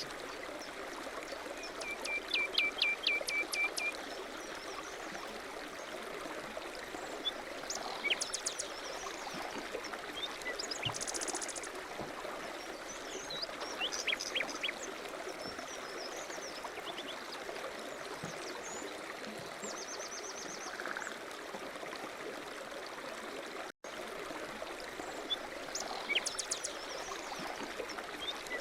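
Several small birds chirping and trilling over a steady rush of running water, with a quick run of about ten clicking notes about two seconds in.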